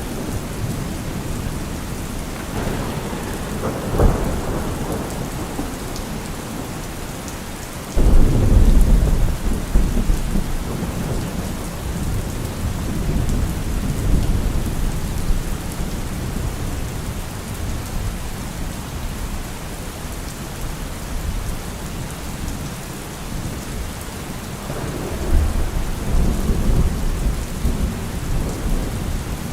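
Heavy rain drumming steadily on a car roof, with thunder: a short crack about four seconds in, a loud rumble that breaks suddenly about eight seconds in and rolls away over several seconds, and another rumble near the end.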